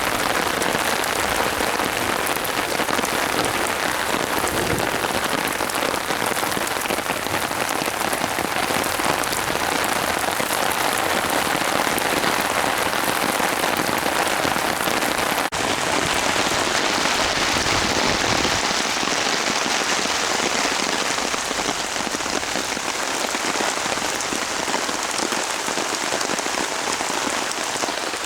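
Steady rain falling, an even hiss of many drops. About halfway through there is a faint click, and the hiss turns slightly duller after it.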